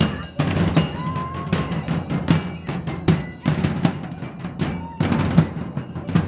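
A drum ensemble playing a rhythm, with frequent heavy drum strikes over a steady low rumble.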